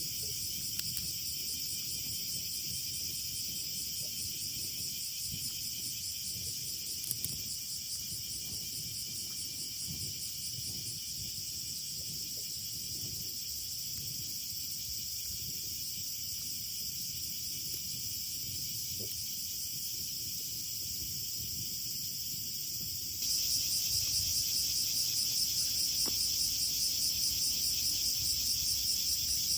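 Steady chorus of insects trilling, high-pitched and continuous; it becomes suddenly louder about 23 seconds in.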